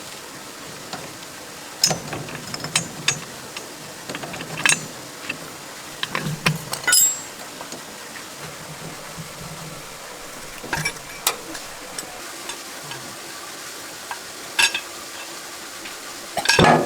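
Metal tools and tractor parts clinking and knocking irregularly, a dozen or so sharp taps with short metallic rings, during hands-on repair work on a small farm tractor.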